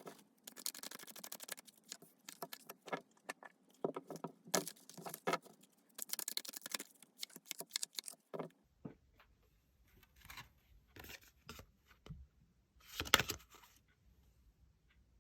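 Tarot cards being shuffled and handled by hand: a run of quick papery rustles, slides and light slaps, thinning out after about eight seconds, with one louder rustle about thirteen seconds in.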